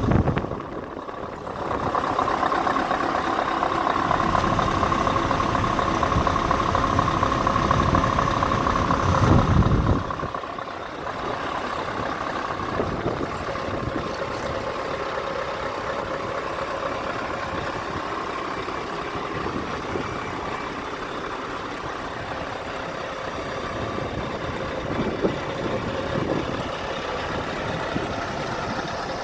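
Scania R520 truck's V8 diesel engine running at idle. It is louder for the first ten seconds or so, then drops suddenly to a quieter, steady idle.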